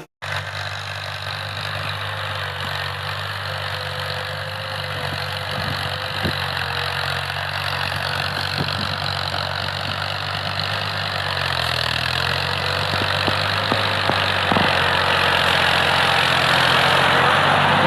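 New Holland Ghazi 480 tractor's diesel engine running steadily under load, pulling an 11-tine cultivator. It grows gradually louder.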